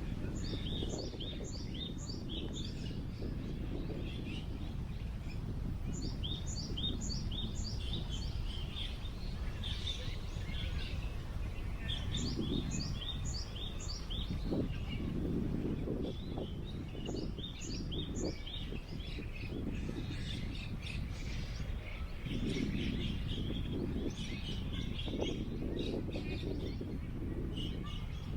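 A songbird singing short phrases of quick, repeated high chirping notes, about four phrases a few seconds apart. Under it is a steady low rush of wind.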